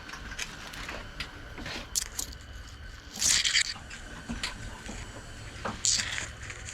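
Faint rustling and scraping over a steady low rumble, with a short, louder hissing rustle about three seconds in and another near the end.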